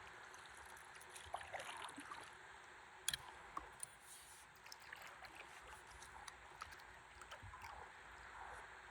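Faint water sounds around a stand-up paddleboard on a river: soft splashing and dripping, likely from the paddle, over a steady low hiss of flowing water. There is a sharp knock about three seconds in.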